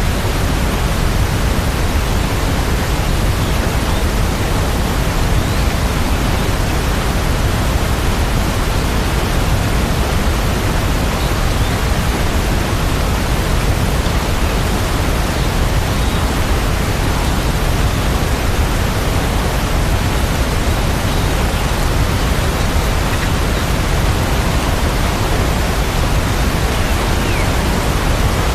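Steady heavy rain: a dense, even hiss that holds constant, fullest in the low end.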